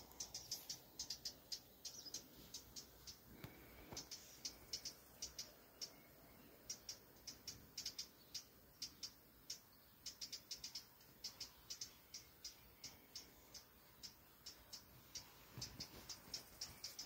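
Small songbird scolding with sharp, high ticking calls in quick, irregular runs of several a second: an alarm call, from a bird the uploader tentatively takes for a European robin.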